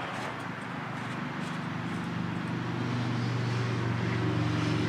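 A steady, low engine drone that grows slowly louder, typical of a passing vehicle.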